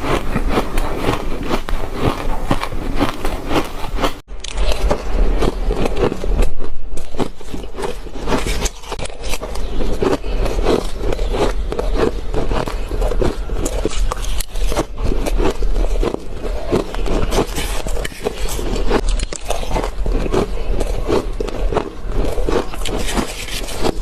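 Close-miked crunching and chewing of a mouthful of shaved ice: a dense, continuous run of rapid crackles, with a brief break about four seconds in.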